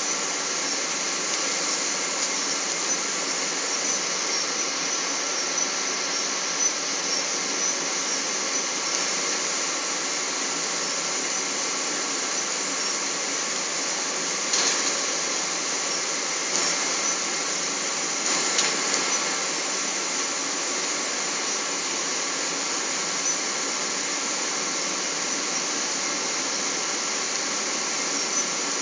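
Steady rushing roar of jet engines and airflow heard inside the cabin of a Boeing 777 in flight, with a faint steady whine through it. Two or three faint clicks come about halfway through.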